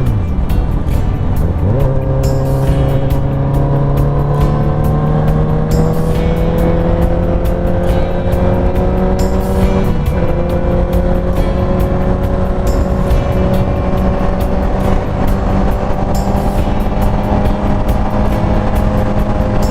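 Honda CBR1000RR's inline-four engine pulling at speed, with wind rush. Its pitch drops sharply at the start and climbs back about two seconds in, rises slowly for several seconds, dips briefly around the middle as a gear changes, then holds steady.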